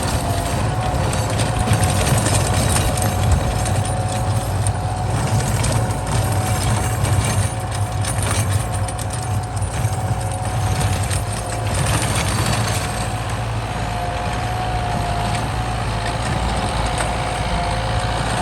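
Kubota M8540 tractor's four-cylinder turbo-diesel engine running steadily, with a thin steady whine over the low engine drone.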